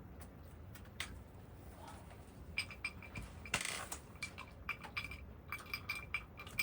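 Tableware clinking: a few light clicks, then from about two and a half seconds in a quick run of ringing clinks of cutlery against dishes and glass, with a short rustling burst partway through.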